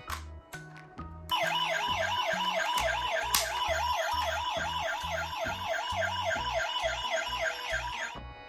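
Ambulance siren in a fast yelp, its pitch warbling up and down about four times a second. It starts about a second in and cuts off just before the end, over background music with a steady bass beat.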